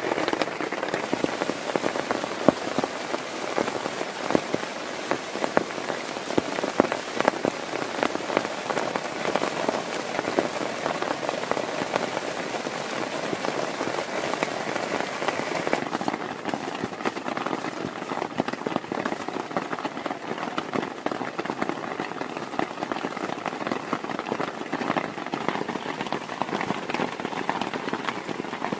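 Heavy rain falling steadily, with many separate drops striking close by. The sound turns slightly duller a little past halfway.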